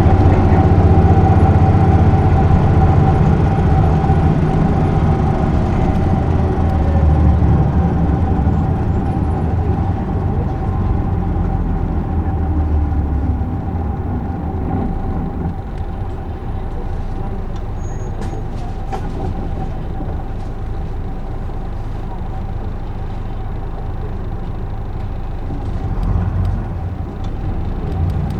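Isuzu Erga city bus (PJ-LV234L1) driving, heard from inside the cabin: its diesel engine runs loud under load with a steady whine, then falls to a quieter running note from about halfway through, rising again briefly near the end.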